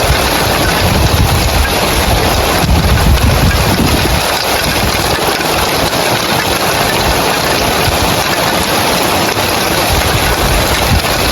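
Rain falling steadily on roof tiles, a dense, even hiss, with a stronger low rumble during the first few seconds.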